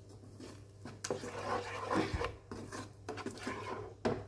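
Slotted spatula scraping and stirring thick tomato sauce in a granite-coated nonstick wok: irregular rubbing strokes with a few light clicks, starting about a second in and stopping near the end.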